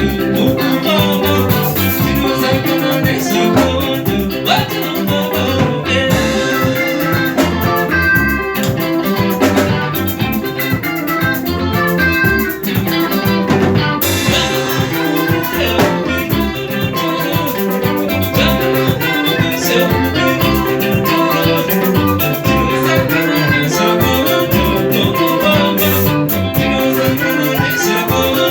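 Live band music: plucked electric guitars over a steady drum beat.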